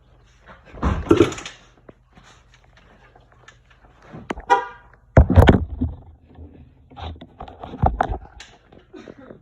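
Honda ATC 250R two-stroke engine being kick-started: several separate bursts of effort, one with a short buzzing tone about four and a half seconds in, and the engine does not settle into a steady run.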